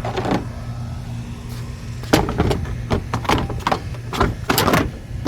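Plastic bumper cover and trim being handled and pressed into place, a quick run of clicks and knocks starting about two seconds in over a steady low hum.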